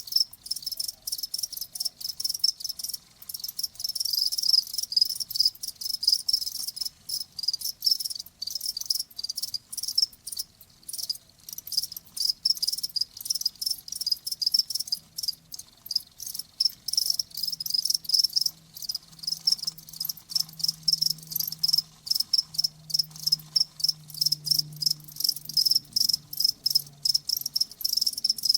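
Crickets chirping: a continuous stream of rapid, high-pitched pulsed chirps.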